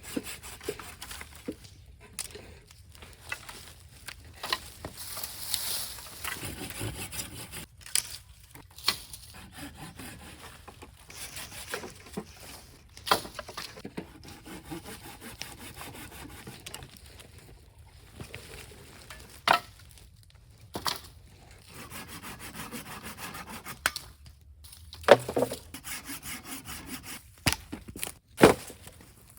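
Scrap wood being handled and broken: irregular knocks and clatters of boards with scraping and splintering, the loudest knocks near the end.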